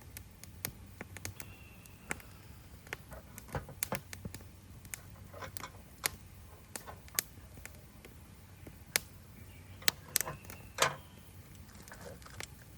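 Wood fire crackling: irregular sharp pops and snaps of burning wood, with a louder cluster of pops near the end.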